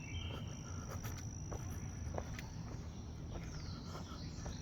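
Faint steady insect trill held at one high pitch in a forest, with a few light clicks over a low rumble.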